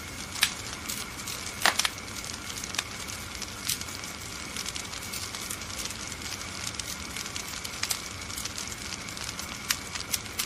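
Wood fire crackling in a fireplace: a steady hiss with sharp pops at irregular intervals, the loudest about half a second in and just under two seconds in.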